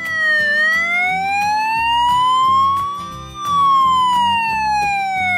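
Cartoon emergency-vehicle siren: one slow wail that dips briefly, rises for about three seconds, then falls again, over children's background music with a steady beat.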